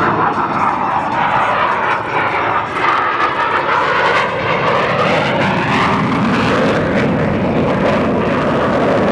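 Blue Angels F/A-18 Hornet jets flying past, a loud steady jet roar with a rushing tone that sweeps down and back up in pitch as they pass.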